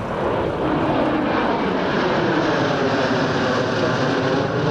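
Formation of Yak-52 trainers flying past, their nine-cylinder radial propeller engines giving a loud, steady drone that swells near the start and holds level.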